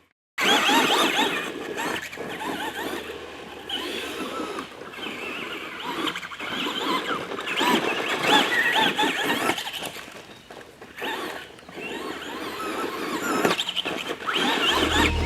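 Traxxas Stampede 2WD RC monster truck's electric motor and drivetrain whining, the pitch rising and falling as the throttle is worked, over the rough noise of the tyres on the track. The whine drops away and comes back several times.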